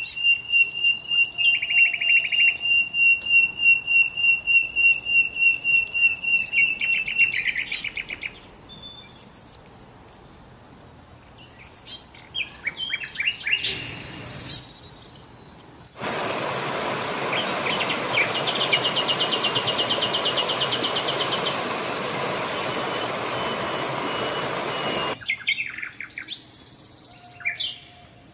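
Songbirds singing: a long, fast run of repeated high notes for about seven seconds, then scattered chirps. About halfway through, a steady hiss starts suddenly, carrying a fast high trill, and cuts off suddenly some nine seconds later.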